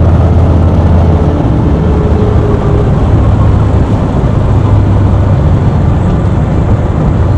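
Harley-Davidson V-twin motorcycle engine idling at a stop, a steady low rumble.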